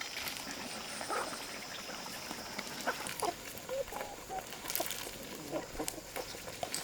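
Domestic chickens clucking in short, scattered calls, with small clicks and knocks among them. A thin, steady high-pitched tone sounds through the first half and then stops.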